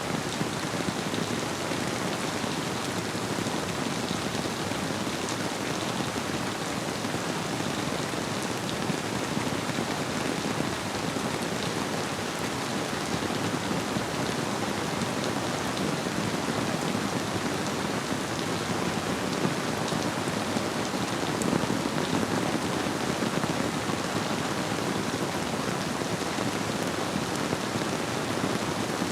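Steady rainfall, an even unbroken hiss of drops, blended with the flow of a river.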